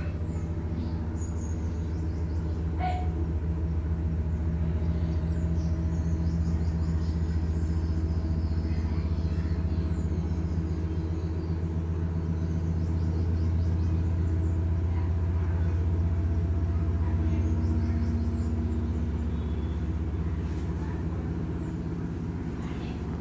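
LG jet-spray washing machine running mid-cycle: a steady motor hum that swells a little louder through the middle and eases off near the end.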